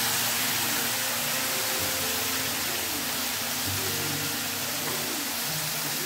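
Chopped palak spinach sizzling in a hot pan of oil, a steady hiss as the leaves wilt and give off steam.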